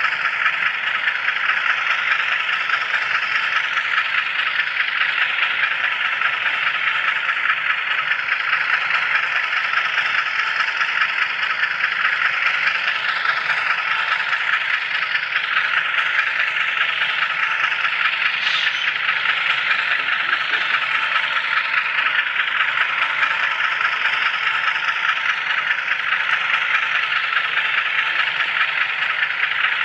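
HO scale camera car rolling along model railroad track, its wheels on the rails heard close up as a steady rattling hiss.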